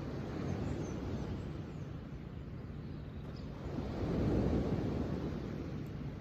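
Ocean surf: a steady rush of waves that swells louder about four seconds in as a wave comes in.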